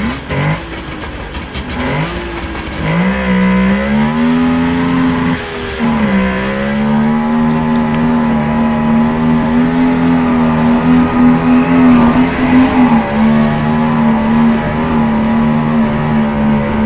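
Off-road 4x4's engine revved in short blips, then held at high revs under heavy load, with a brief dip about six seconds in, as the vehicle works its way up a competition obstacle.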